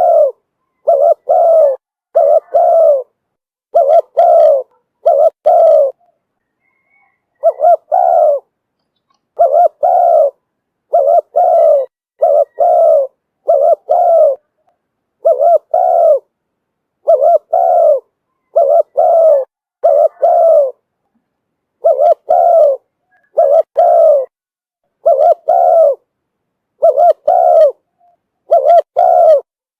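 Spotted dove cooing: short coos repeated in groups of two or three, with a brief pause about six seconds in. This is a decoy call used to lure wild spotted doves.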